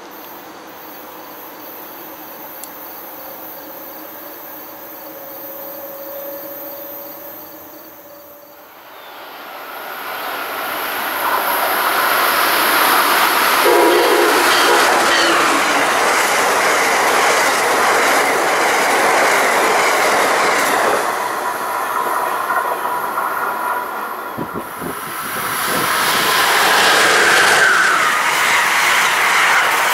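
Amtrak passenger train hauled by an ACS-64 electric locomotive, first faint in the distance, then from about a third of the way in growing loud as it rushes past at speed. Wheels click over the rail joints and the air rushes as the cars go by.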